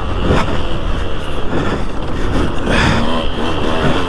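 2003 KTM 200 SX two-stroke motocross engine running and revving, its pitch rising and falling, with a short burst of noise about three-quarters of the way through.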